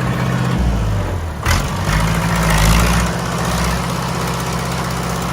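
A big old farm tractor's engine running. Its note drops about half a second in, a sharp clunk comes about a second and a half in, and the engine then pulls louder for about a second before settling to a steady run.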